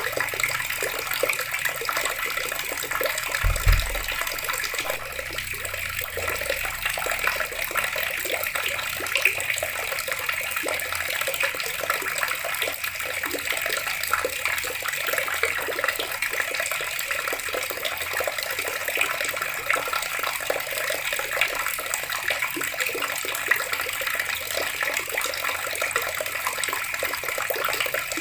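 Water running steadily from a tap, a continuous splashing and trickling stream. A brief low thump sounds about three and a half seconds in.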